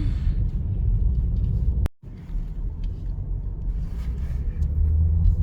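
Low, steady rumble of a car driving. The sound cuts out abruptly for a moment about two seconds in, then resumes.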